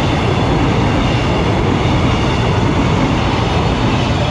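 Airport electric multiple-unit train passing close by at speed: a loud, steady noise of wheels running on the rails and the carriages going past.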